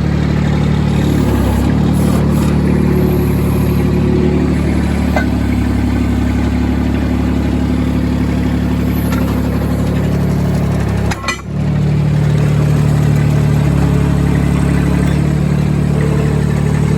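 Terramite compact tractor-loader-backhoe's engine running steadily, its pitch shifting a little now and then, with a brief dip in level about eleven seconds in.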